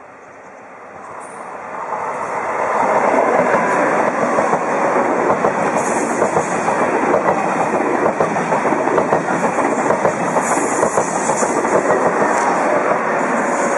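A high-speed train approaching, growing louder over the first three seconds, then rushing past steadily.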